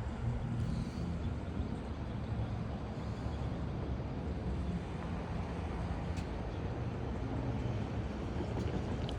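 Low, steady engine rumble with a faint hum, running evenly without change.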